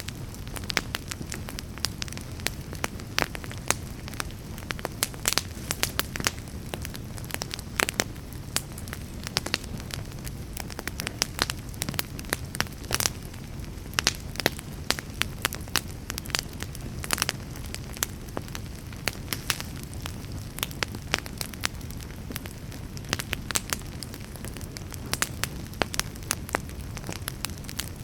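Wood fire burning: a steady low rumble of flames with frequent irregular crackles and sharp pops from the burning firewood.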